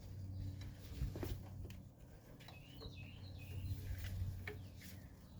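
Birds chirping in the background, a short warbling run of chirps about halfway through. A few light clicks and knocks are heard from hand work on the hub's vacuum line, over a low steady hum.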